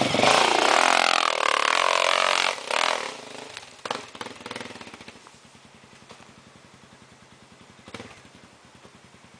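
Off-road dirt bike engine revving hard under load as it climbs past, then fading away within a few seconds. A faint steady low engine pulse remains, with a single sharp knock near the end.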